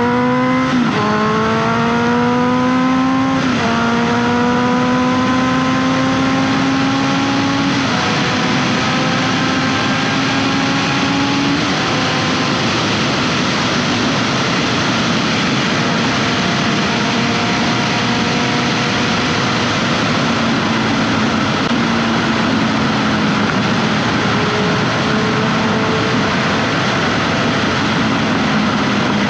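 Honda CBR650F's inline-four engine with an SC-Project exhaust, heard from the rider's seat, accelerating through the gears: the pitch climbs and drops at each upshift, about four times in the first twelve seconds, then holds at fairly steady revs. A steady rush of wind noise runs under it throughout.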